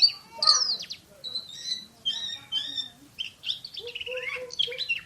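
Oriental magpie-robin (kacer) singing a fast, varied song of sharp whistled notes and quick sweeps, the rapid 'shooting' style prized in songbird keeping.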